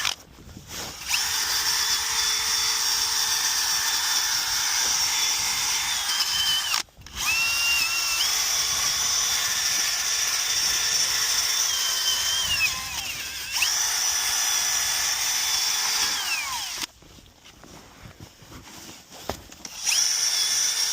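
Handheld electric drill run in four long bursts, its motor whine spinning up and winding down between them, used to clean the starter mounting surface on the engine block.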